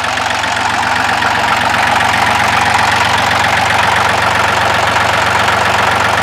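Ford 1710's three-cylinder diesel engine running steadily, with a slight rise in level over the first second or so.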